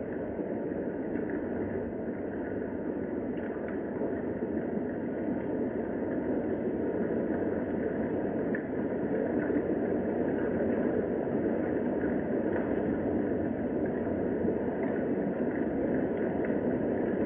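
Steady rain falling, an even, muffled hiss of rainfall with faint scattered drop ticks.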